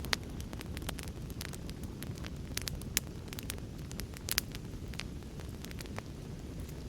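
Wood fire in a fireplace crackling, with irregular sharp pops and snaps over a steady low rumble of the rainstorm.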